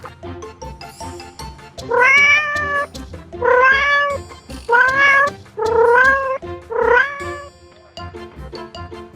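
Domestic cat meowing five times in a row, each meow under a second long, over background music.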